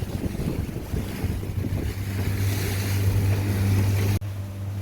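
A boat's engine running steadily with a low drone, under wind and water noise. The sound drops out sharply for an instant about four seconds in, then the drone carries on.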